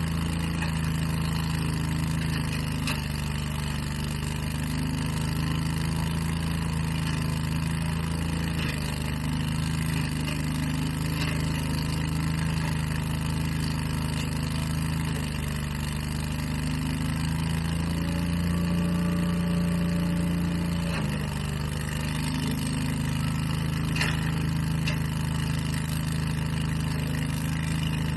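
Gas engines of outdoor power equipment running steadily, the engine note shifting slightly a few times and rising a little about 18 seconds in before dropping back about 21 seconds in.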